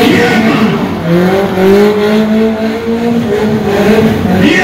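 Car engine revving and held at high revs, its pitch rising about a second in and then wavering, with tyre squeal from the wheels spinning in a burnout.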